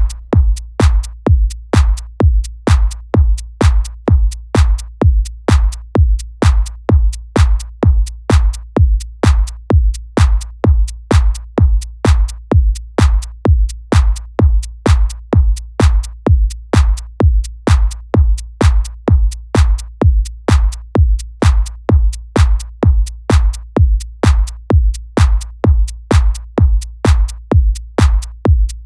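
Electronic house music made with LMMS's built-in drum machine sounds: a steady four-on-the-floor kick drum beat at about two kicks a second, with deep bass under each kick and no melody.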